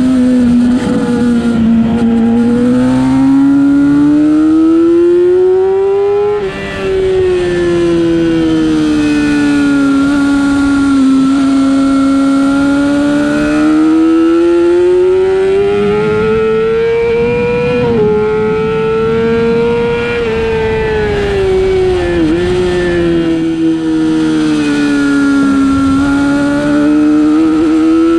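Racing superbike's engine at race pace, revving up and down through the gears and corners, the pitch repeatedly climbing and falling. There are short breaks as the throttle is chopped for shifts or braking, about 6 seconds in, about 18 seconds in, and again about 22 seconds in, with a constant rush of noise underneath.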